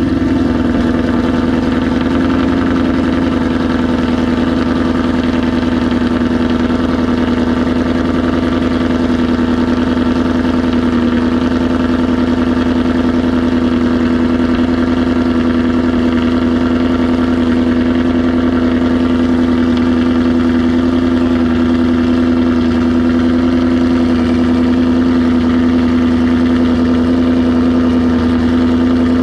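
Ford Coyote 5.0 V8 idling steadily just after startup, heard through Kooks headers, an H-pipe and catalytic converters with the active exhaust valves open. The idle eases down slightly in the first couple of seconds, then holds even.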